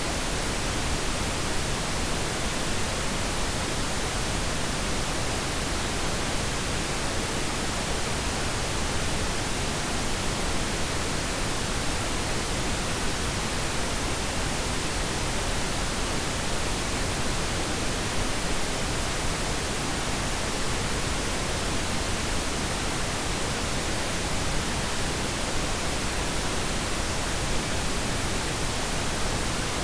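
Steady pink noise: an even, unchanging hiss across all pitches, softer in the highs than white noise.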